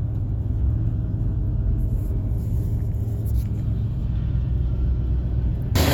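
Pickup truck driving, a steady low rumble of engine and road noise heard from inside the cab. Near the end a sudden loud rush of noise across all pitches cuts in.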